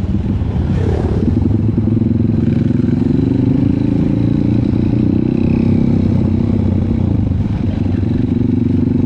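Trail motorcycle engine running steadily at low revs, its pitch dipping briefly near the end and picking up again.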